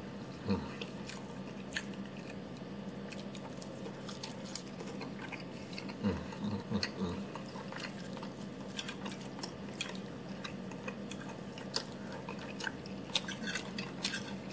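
A person chewing a mouthful of pancake, with scattered light clicks of a metal fork on a plate as food is cut and picked up. A steady low hum lies underneath.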